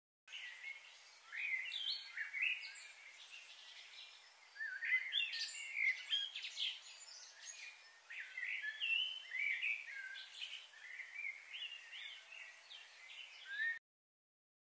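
Small birds chirping in many short, quick, overlapping high calls, some gliding up or down, over a steady high hiss.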